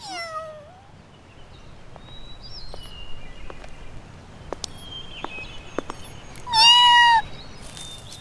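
A cat meowing: a short meow falling in pitch at the start, then a louder, longer meow held on one pitch near the end.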